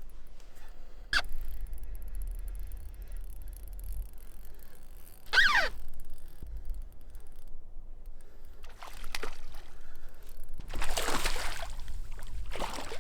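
Hooked largemouth-type bass splashing at the water's surface beside a canoe while being reeled in, with the loudest bursts of splashing near the end. A short falling squeal about five seconds in.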